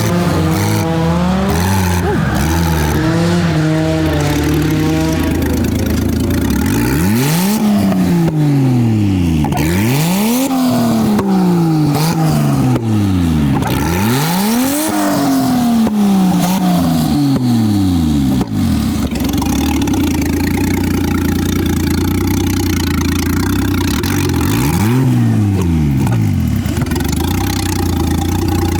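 Nissan R32 Skyline's turbocharged RB20E inline-six revving hard up and down about five times in quick succession, each rev climbing and falling within about two seconds. It then holds a steady speed, with one more rev near the end.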